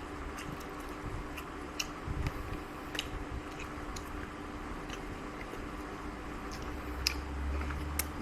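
A person chewing a mouthful of a rice meal, with scattered small clicking mouth sounds over a steady low hum.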